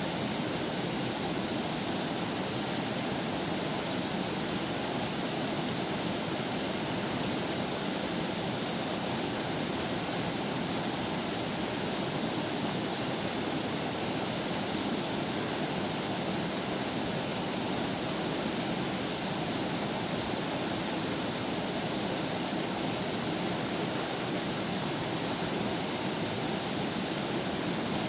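River water flowing and rushing over rocks in a steady, unchanging wash.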